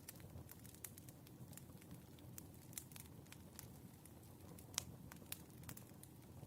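Wood fire crackling softly: irregular small pops and snaps over a low, gentle rumble, with one sharper pop about three-quarters of the way through.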